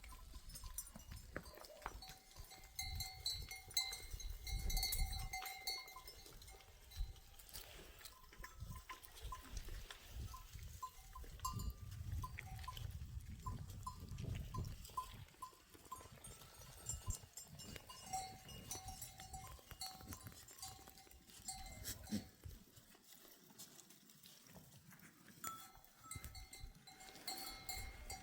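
Bells on a flock of goats and sheep clinking as the animals move, with occasional bleats. At times a low rumble of wind buffets the microphone.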